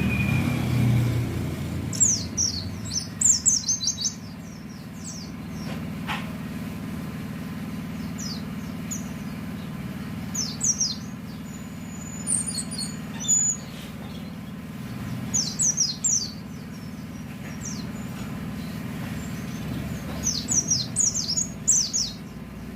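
A white-eye (pleci) singing in about five short bursts of quick, high, falling chirps, with pauses of a few seconds between them, over a steady low hum of road traffic.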